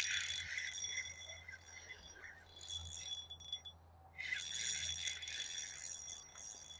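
Fishing reel whirring in two spells of about three seconds each while a hooked carp is played in, with a quieter gap in the middle.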